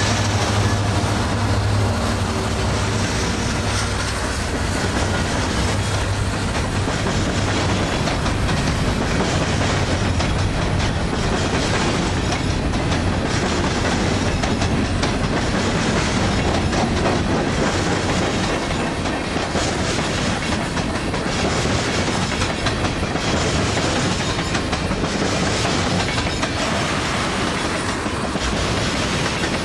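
A freight train's cars rolling past with a steady rumble and clickety-clack of steel wheels over the rail joints. The low drone of its diesel locomotives fades away over the first few seconds.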